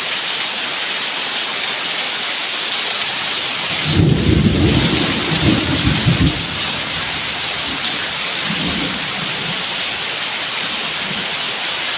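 Heavy rain pouring steadily in a downpour. About four seconds in, a loud low rumble rises over the rain for a couple of seconds, with weaker swells of it later on.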